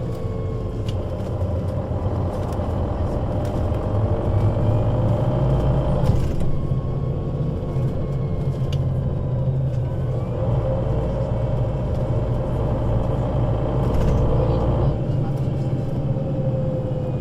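Solaris Urbino 12 III city bus's diesel engine and Voith automatic gearbox running under way: a steady low drone with a whine that falls over the first few seconds, then rises from about ten seconds in and breaks off at about fifteen seconds as the bus shifts gear.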